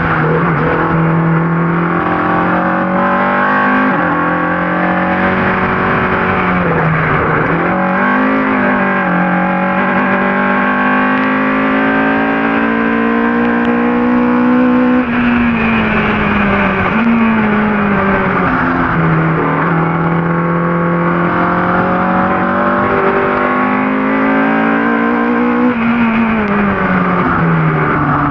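Ford Cortina race car's engine under hard racing load. The revs climb steadily and then drop sharply with each gear change, several times over.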